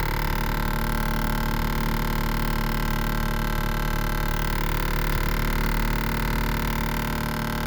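Rear window sunshade motor of an Infiniti M37 (Q70) making a steady, unchanging hum with several pitches at once as it is triggered by the car being put in reverse; an annoying noise the owner wants rid of.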